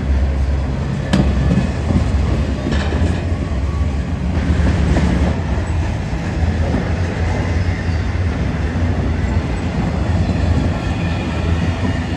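Freight train rolling past, with a steady low rumble from the cars and a few sharp clicks from the wheels in the first few seconds.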